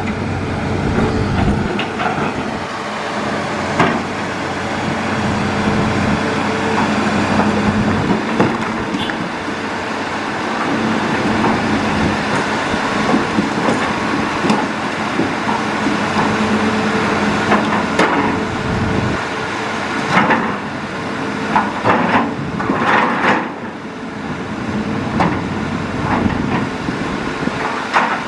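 Hitachi Zaxis excavator's diesel engine running steadily, with scattered knocks and clatters of the working machine, a cluster of them near the end.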